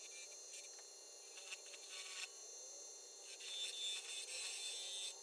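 Hand-tool scraping and rubbing in two bursts, a short one about a second and a half in and a longer one from about three seconds in, with a few light clicks between.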